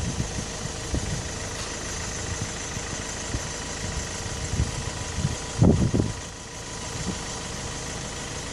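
A car engine idling steadily, with irregular low thuds and one louder low bump a little after halfway.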